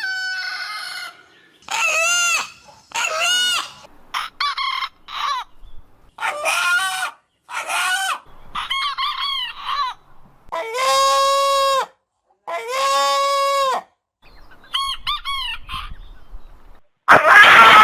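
Chicken calls: a string of about a dozen separate pitched calls, mostly short and rising then falling, with two longer held calls in the middle. A louder, harsher call comes right at the end.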